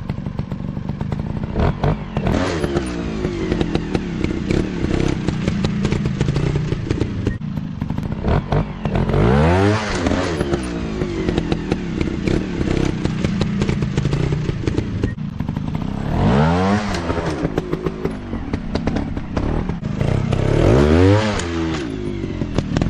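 Dirt bike engine running off-road, its pitch climbing and falling sharply three times as the throttle is opened, with clattering and scraping from the terrain.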